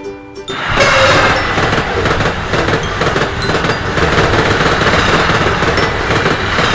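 Train-passing sound effect from an animated level crossing: a loud, dense clattering rumble of wheels on rails that starts suddenly about half a second in, played back at double speed. Short chiming tones stop just before it starts.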